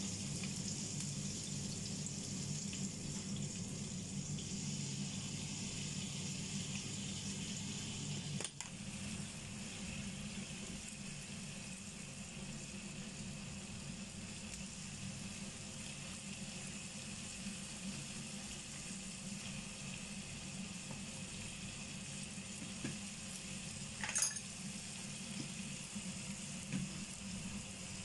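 Chicken wings and lemon slices sizzling as they fry in a nonstick pan, a steady hiss. There is a brief knock about eight seconds in, and a short click near the end.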